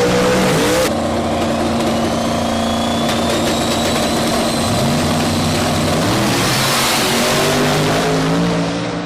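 Highly modified car engine running loud, revving, then holding steady revs for several seconds before the revs climb again near the end. A thin high whine rises slowly in pitch alongside the engine.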